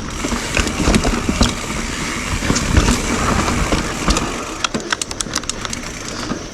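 YT Jeffsy full-suspension mountain bike ridden over a dirt singletrack: tyres rolling and rumbling over the ground with scattered clicks and rattles from the bike, and a quick run of sharp rattles about five seconds in.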